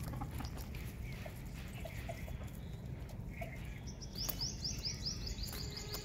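Bird chirping: a rapid run of high, short chirps, about six a second, starting about two-thirds of the way in, after a few faint soft notes earlier, over a steady low rumble.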